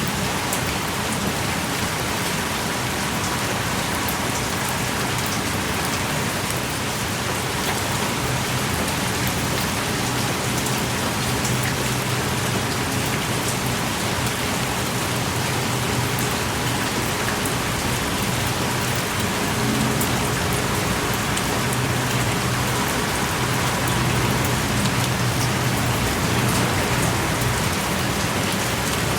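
Heavy rain pouring steadily outside a small cave, with scattered sharp drips among the constant downpour.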